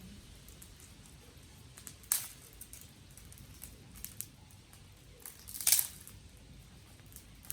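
Dry sticks snapping: two loud sharp cracks, about two seconds in and again near six seconds, the second a short splintering run of cracks, over faint scattered crackling ticks.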